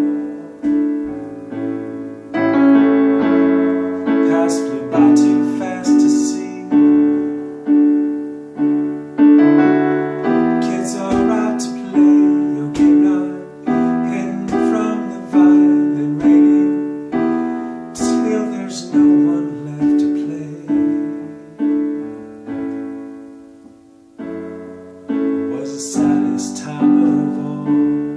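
Solo piano playing an instrumental passage of struck chords, each fading before the next. It dies down low a little past twenty seconds in, then picks up again.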